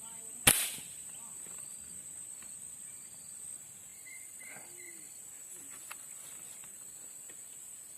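A single Sharp Tiger air rifle shot, one sharp crack about half a second in. A steady high insect drone runs underneath, with a few faint bird chirps later.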